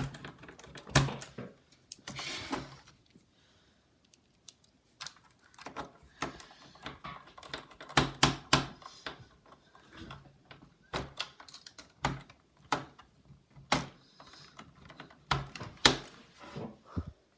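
Irregular clicks and knocks of a laptop's plastic case and small parts being handled and fitted by hand, with a brief rustle about two seconds in.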